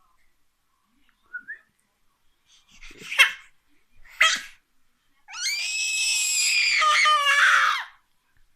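Baby squealing very high: two short squeaks, then one long high-pitched squeal of about two and a half seconds, around the pitch of high C, that drops in pitch at the end.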